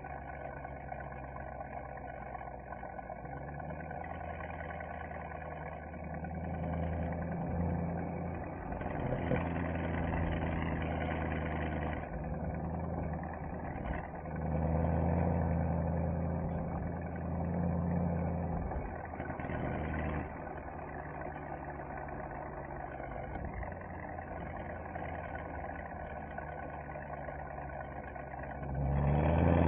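Mercedes-AMG SL63's V8 engine and exhaust running while driving, the note swelling and easing several times with the throttle. Near the end it revs up sharply, rising in pitch and getting louder under acceleration.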